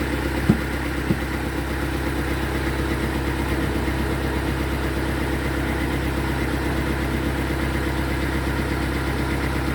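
Sawmill running steadily with an even machine drone while sawing a rotten log, with two short knocks about half a second and a second in.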